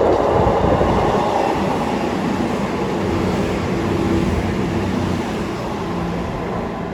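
CrossCountry Class 221 Super Voyager diesel-electric multiple unit passing through the station: diesel engines droning over the rumble of wheels on the rails, loudest at the start and easing slowly.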